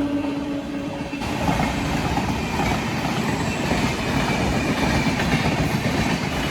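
The tail of an electric locomotive's horn fades out within the first second. Then, about a second in, a WAP-7-hauled express rushes through at speed with a loud, dense clatter of wheels on rail joints.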